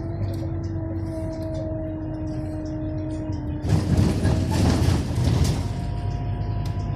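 Scania OmniLink CL94UB city bus heard from inside the cabin: the drivetrain runs with a low hum and a steady whine of several held tones. About four seconds in, a louder burst of clattering noise covers it for a second or two, then the whine returns.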